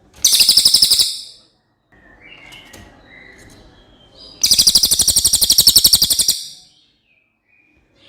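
A cililin songbird singing clear, very fast trills: a loud trill lasting about a second at the start and a longer one of about two seconds mid-way, with softer chirps between.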